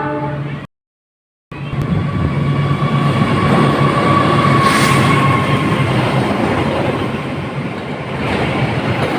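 Train passing close by: a steady loud rumble of wheels on the rails, with a high squealing tone over it for a few seconds in the middle. The sound cuts out completely for under a second near the start.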